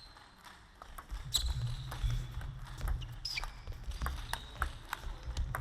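Table tennis rally: the celluloid-type plastic ball clicks sharply off bats and table at an irregular pace, while the players' shoes squeak and their feet thump on the gym floor from about a second in.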